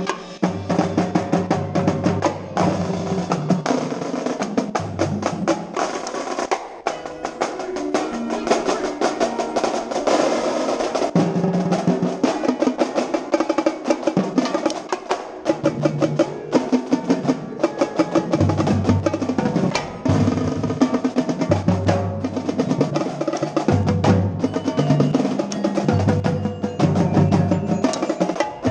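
Percussion ensemble playing: dense, rapid drumming on marching tenor drums (quints) with snare and bass drums, over sustained low pitched notes from the front ensemble.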